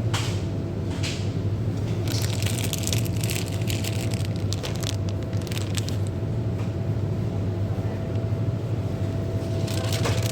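Steady low hum with bouts of crackling and crinkling, about two to five seconds in and again near the end.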